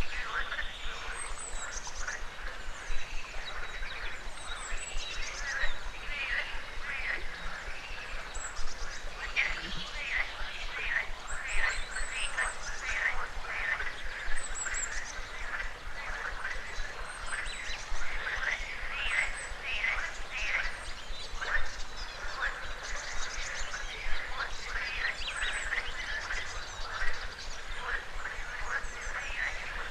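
A chorus of frogs croaking continuously, with a louder call standing out about every three seconds, and small birds chirping high above it.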